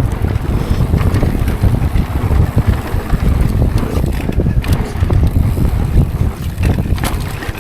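Wind buffeting the microphone during a mountain bike descent on a dirt trail, with tyre noise and short clicks and knocks from the bike over rough ground.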